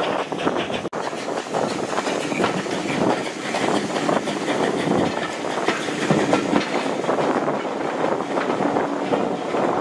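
Steam-hauled heritage train's carriages running along the track, heard from an open carriage window: steady running noise full of quick clicks and knocks from the wheels on the rails, with a brief break about a second in.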